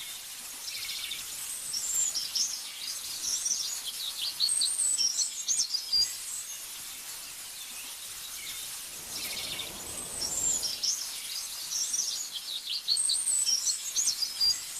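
Songbird singing in quick high chirps and trills, in two bouts with a pause of a few seconds between, over a faint steady hiss of ambience.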